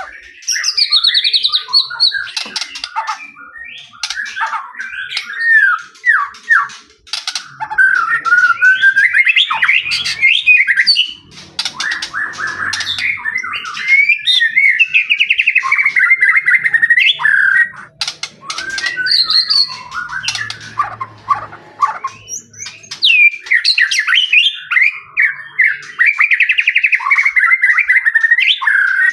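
White-rumped shama (murai batu) singing loudly and continuously, a fast, varied run of warbled phrases and sharp chattering notes.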